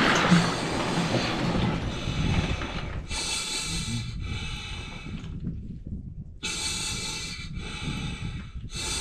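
A man breathing hard and snorting after dunking under 0°C ice water, the cold-shock breathing of an ice bath. A rushing noise fills the first few seconds, then come four long, forceful breaths in two pairs, with a short pause between the pairs.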